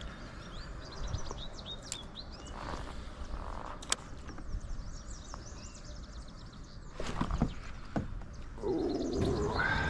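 Songbirds chirping, with many short, quick high notes, and a few sharp clicks or knocks in between. A louder pitched sound comes in near the end.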